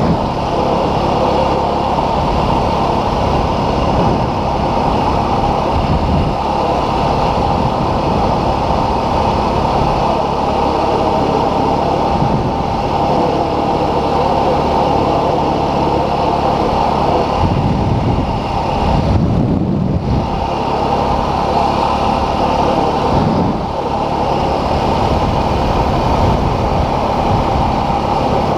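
Dual-sport motorcycle engine running steadily while being ridden, easing briefly about twenty seconds in.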